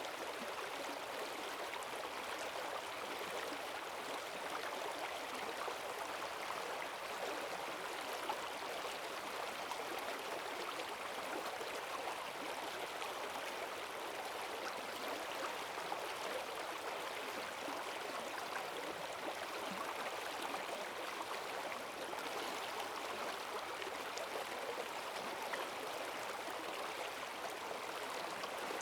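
Forest stream swollen with rainwater, rushing steadily over its bed with a fast, churning current.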